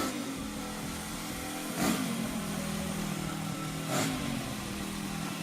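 An engine idling steadily, with brief louder surges about every two seconds.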